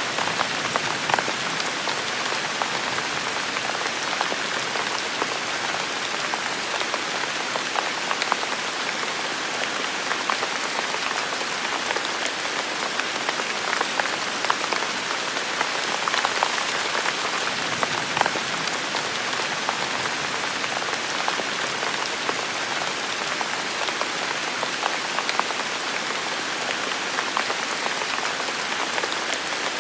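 Steady heavy rain falling: a dense, even hiss with many sharp individual drop hits ticking through it.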